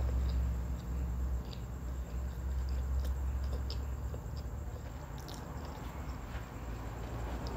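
A person chewing a mouthful of sushi roll, with small, scattered wet mouth clicks, over a steady low hum.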